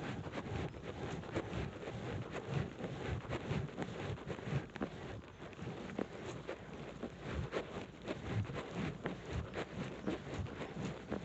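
Irregular light tapping and rustling on a body-worn camera as its wearer walks along a lane.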